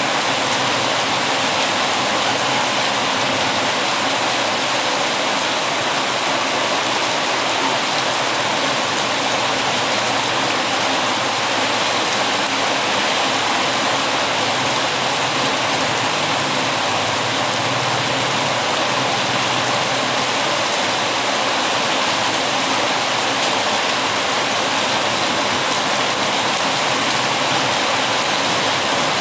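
Heavy rain falling steadily, an even unbroken hiss with no separate crackles standing out.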